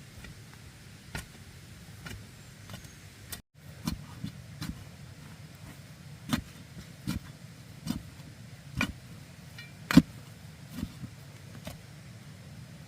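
A series of irregular sharp knocks and taps over a steady low background noise, with a brief cut in the sound about a third of the way in; the loudest knock comes near the end.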